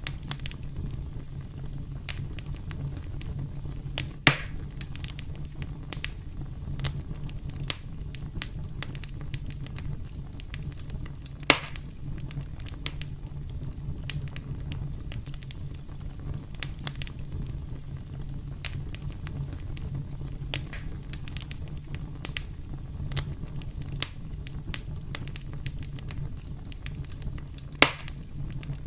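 Campfire crackling: a steady low rumble of burning wood with a constant scatter of small snaps, and three louder pops about four, eleven and a half, and twenty-eight seconds in.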